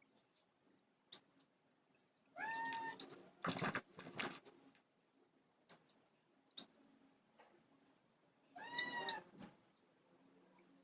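Two drawn-out, meow-like animal calls about six seconds apart, each bending in pitch, with a short burst of noise just after the first and faint small chirps and clicks in between.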